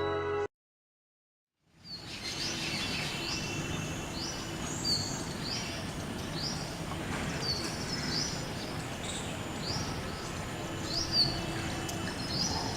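A bird chirping repeatedly, short high sweeping notes about one or two a second, over steady outdoor background noise. Background music cuts off just at the start, and a second of silence comes before the outdoor sound begins.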